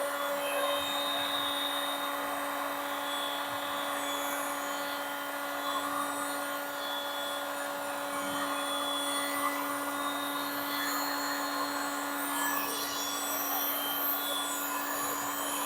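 Small electric blower motor running steadily, a constant hum over a hiss of blown air, used to push poured epoxy resin into waves.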